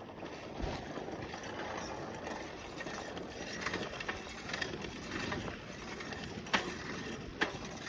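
Bicycle being ridden along a dirt trail: a steady rumble of tyres and the bike, with a few sharp clicks and rattles, two of them louder near the end.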